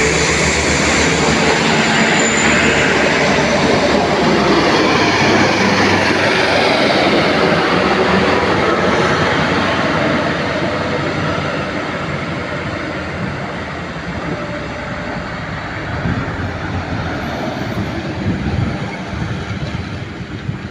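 A heavily loaded sugarcane truck running past close by, with loud, dense engine and road noise that fades gradually after about ten seconds as it moves away.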